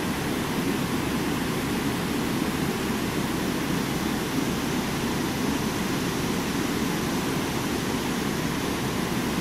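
Steady rushing of water over a small waterfall.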